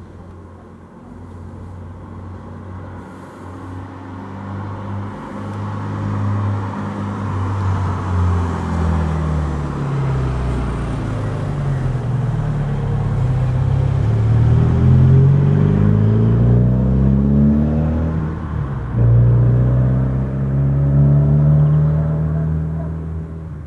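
A motor vehicle's engine running and growing louder, its pitch gliding up as it accelerates, then dropping suddenly near the end and climbing again, as at a gear change.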